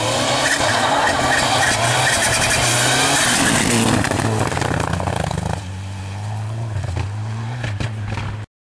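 Rally car engine at high revs as the car passes at speed, loudest through the first four seconds. It eases to a steadier, quieter engine note about five and a half seconds in, then cuts off abruptly near the end.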